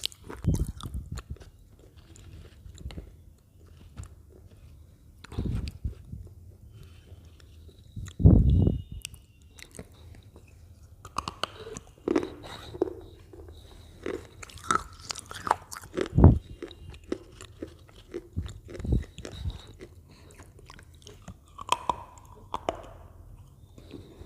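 Close-miked crunching and chewing of potato chips: irregular crisp bites and crunches, the loudest about eight seconds in.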